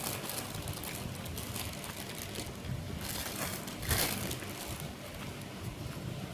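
A person chewing and crunching gado-gado close to the microphone, with a run of crisp crunchy bites, the loudest about three and four seconds in.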